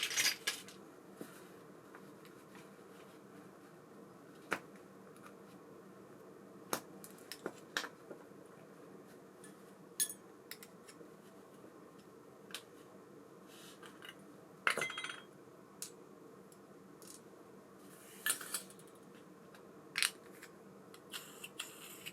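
Small metal reel parts and tools clicking and clinking, about a dozen separate light knocks spread out, as an ABU Ambassadeur 5500C baitcasting reel is handled and taken apart. A faint steady hum runs underneath.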